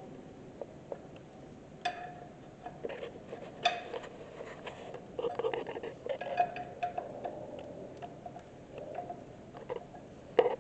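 Hand tools clinking and clicking on metal as the tractor's oil drain plug is screwed back in and tightened. There are a few sharp clinks and a stretch of quick ratchet-like ticking about halfway through.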